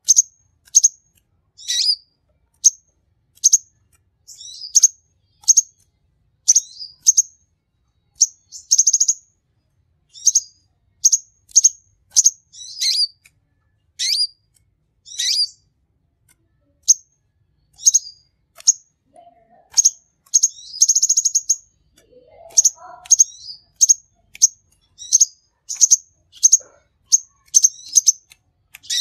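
A sunbird (the 'konin' or kolibri ninja) singing nonstop: a rapid string of sharp, high chirps about two a second, broken twice by short buzzy trills, about 9 and 21 seconds in.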